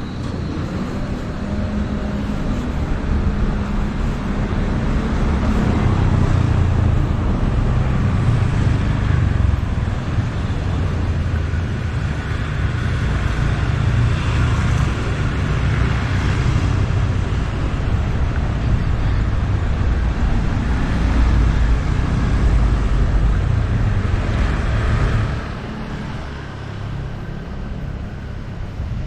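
Street traffic: vehicles running past, with heavy low-pitched noise that eases off noticeably about 25 seconds in.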